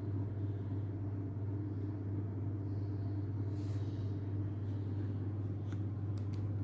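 A steady low hum, even in level, with a few faint clicks near the end.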